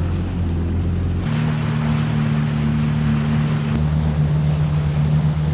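Yamaha FX WaveRunner personal watercraft engines running steadily, with water and wind noise. The engine note changes abruptly about a second in and again near four seconds.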